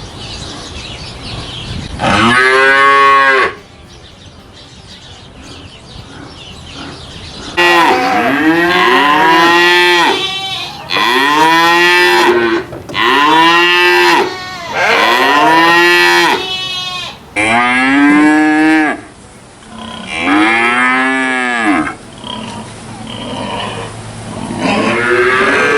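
Cattle mooing: a single long moo, a pause, then a rapid run of drawn-out moos one after another, each rising and then falling in pitch.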